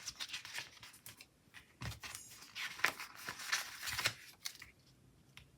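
Paper planner stickers being handled: short rustles and scrapes of sticker sheets and paper, with small taps as a sticker is peeled and pressed onto the page. The sounds come in scattered bursts and thin out near the end.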